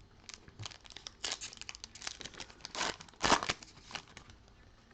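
Plastic-foil trading card pack wrapper being crinkled and torn open by hand: a run of sharp rustling crackles, loudest about three seconds in.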